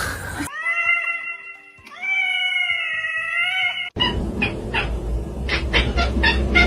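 A cat meowing: two long, drawn-out meows that waver in pitch, cut off suddenly about four seconds in, followed by a noisier stretch with a low rumble and short sharp ticks.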